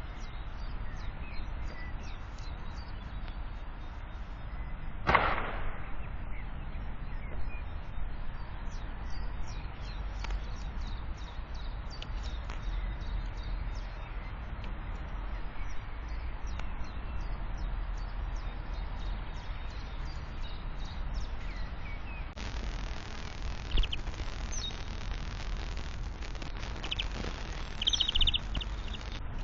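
Small birds at a feeder chirping faintly and sparsely over a steady background hum. There is a brief rushing sound about five seconds in, and a few short high chirps near the end.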